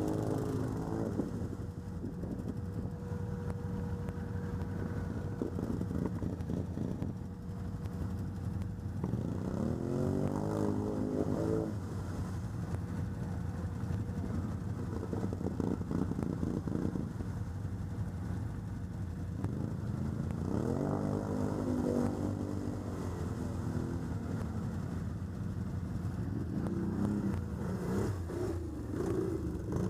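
ATV engine running under way, revving up three times: about a third of the way in, about two-thirds in, and again near the end.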